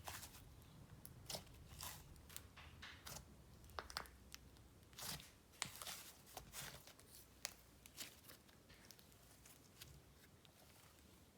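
Faint, scattered sticky clicks and crackles of a swirled icing and clay slime being pressed and stretched by hand, thinning out toward the end.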